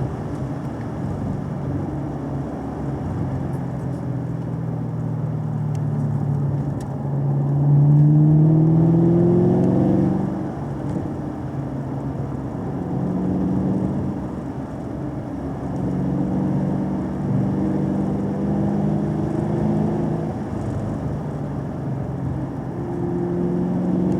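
A car engine under way, its pitch climbing to the loudest point about eight to ten seconds in as it accelerates, then dropping back to steadier running with smaller rises and falls.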